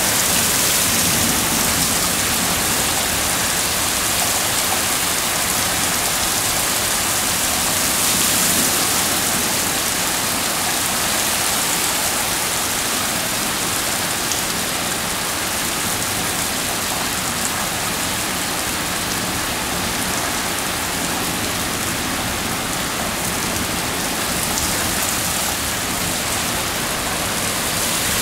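Heavy thunderstorm rain pouring steadily onto concrete pavement and lawns, with water gushing from a downspout.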